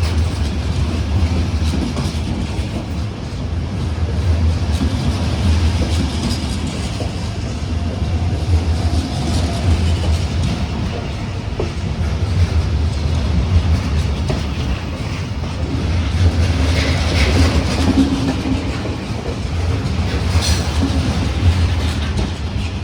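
A passenger train hauled by a ZSSK class 350 'Gorilla' electric locomotive rolls through the station: a steady low rumble with wheels clattering over rail joints, and a couple of brief high squeals later on.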